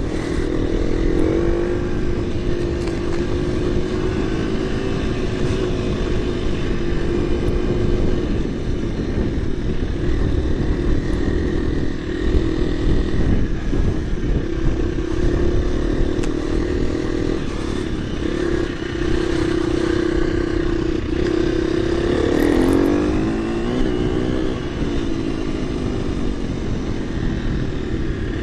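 KTM 350 EXC-F single-cylinder four-stroke dirt bike engine running under way off-road, its note held fairly steady. About 22 seconds in the pitch drops and then climbs again as the throttle is eased and opened back up.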